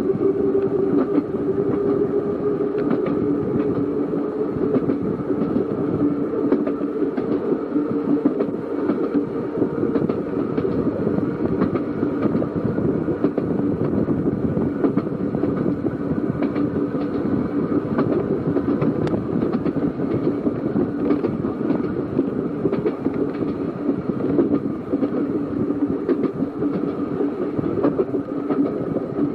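Narrow-gauge electric tram of the Seaton Tramway running along the line: a steady motor hum with scattered clicks from the wheels over the rail joints.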